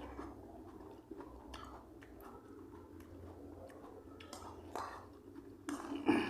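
A person chewing food, with scattered soft mouth clicks and crackles at an uneven pace, and a louder burst just before the end.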